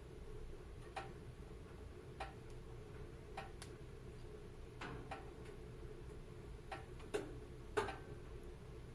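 Wood fire crackling in a fireplace: irregular sharp pops and snaps, about one a second, the loudest near the end, over the low steady sound of the burning.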